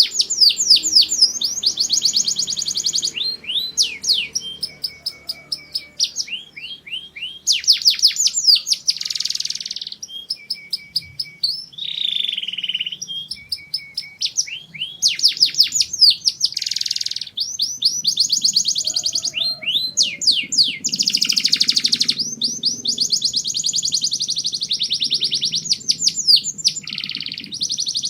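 Male domestic canary singing a long, continuous song of rapid trills, each phrase a fast run of repeated high notes, switching to a new phrase every second or two.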